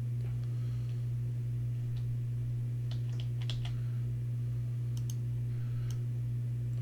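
Computer keyboard and mouse clicks, a few single ones and a quick run of several around the middle, over a steady low hum.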